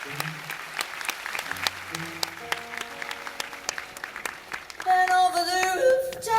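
Audience applause of scattered, thinning claps over a few held bass and guitar notes from the band. About five seconds in, the music picks up and a voice begins singing.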